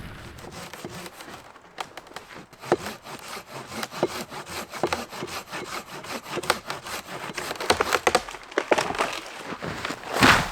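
Dry wood cracking and splintering, a run of irregular sharp cracks, with the loudest crack just before the end.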